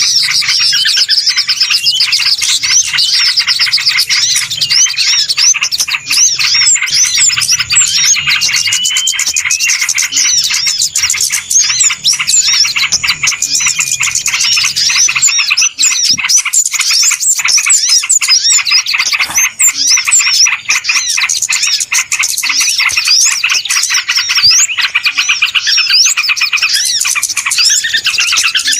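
A dense, busy chorus of many small birds chirping and twittering rapidly without pause: a noisy bird-lure (pikat) recording meant to draw in wild birds. A faint low hum underneath stops about halfway through.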